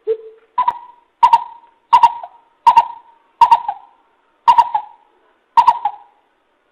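Coucal calling: a series of eight hooting notes about 0.7 s apart. The first note is lower than the rest, and there is a short pause before the last two.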